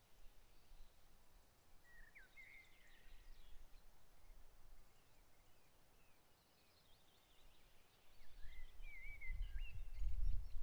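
Songbirds singing in two spells of short, quick phrases with sliding whistled notes. A low rumble builds over the last couple of seconds and is the loudest sound by the end.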